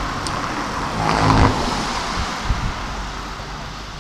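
Keikyu 1500 series electric train running toward the listener, a steady rumble of wheels on rails, with a few low thuds in the second half.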